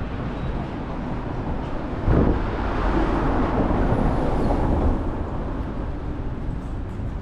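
Outdoor city street noise with wind. About two seconds in, a loud rushing swell comes in suddenly, holds for about three seconds, then eases back.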